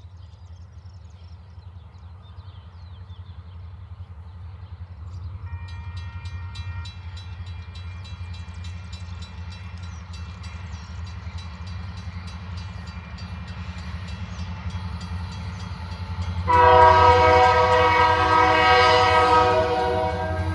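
Locomotive rumbling steadily as a train approaches, with a faint multi-note horn about five seconds in. About sixteen seconds in, a loud chord horn blows one long blast of roughly four seconds.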